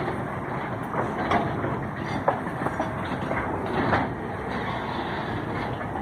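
Freight train wagons rolling past on the track, a steady rumble with irregular sharp knocks and clanks from the wheels on the rails.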